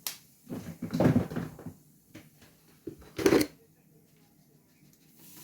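Three short rustling, scraping handling noises in a kitchen, the loudest and sharpest about three seconds in.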